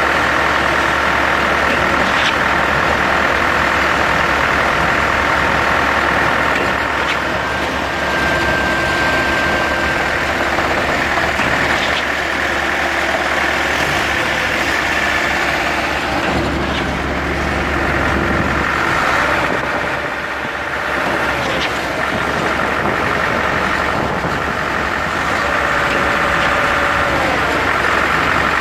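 An engine running steadily at idle, with a few sharp knocks now and then.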